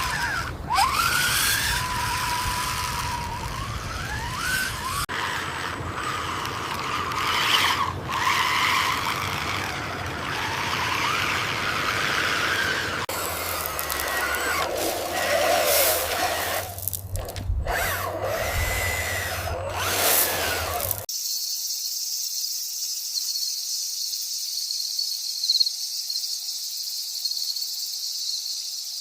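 Small electric motors and gearboxes of radio-controlled toy construction trucks whining, the pitch rising and falling as they speed up and slow down, in several short edited segments. For the last third, only a thin high hiss remains.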